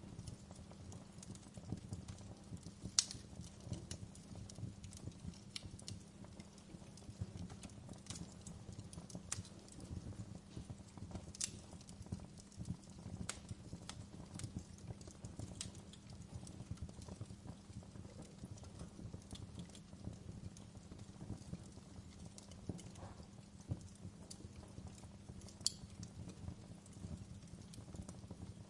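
Wood fire crackling in a fireplace: irregular sharp pops and snaps over a low steady rumble of the burning logs, with a louder snap about three seconds in and another near the end.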